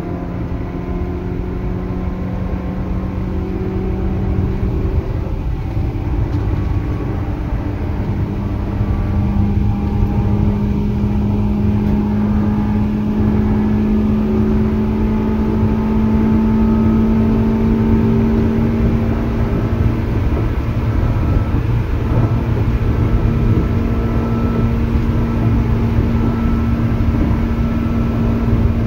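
Seibu 2000 series electric train running, the wheels rumbling on the rail under a low motor whine. The whine steps up about five seconds in and then rises slowly in pitch as the train picks up speed.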